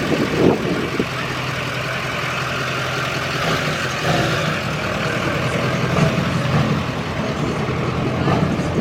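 Pickup truck engine running steadily with a low, even hum.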